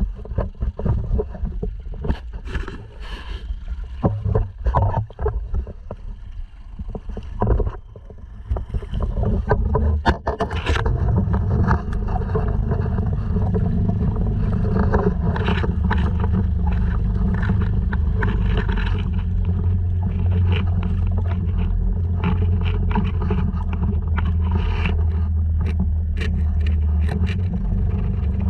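Uneven, gusty noise with scattered knocks. About ten seconds in, a Honda 2.3 hp four-stroke outboard motor on a sea kayak takes over as a steady, even hum.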